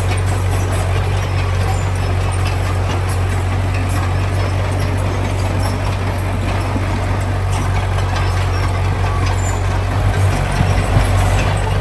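Heavy diesel engine of construction machinery running steadily at a constant low pitch, with a few irregular knocks about ten seconds in.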